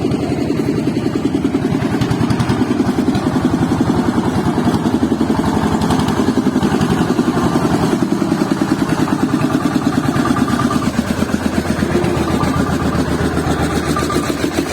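Tractor engine idling with a steady, fast chug of about ten beats a second.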